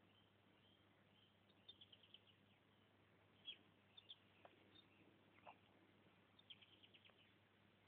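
Faint bird chirps, short high calls in small scattered clusters, over near silence with a low steady hum.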